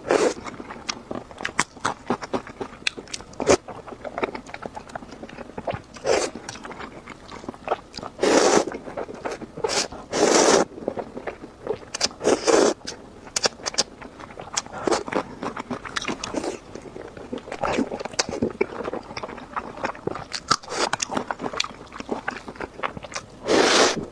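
Close-miked eating sounds of instant noodles and pork belly: steady chewing and biting, with wet clicks throughout and a few loud, noisy bursts about half a second long, roughly a third of the way in and again near the end.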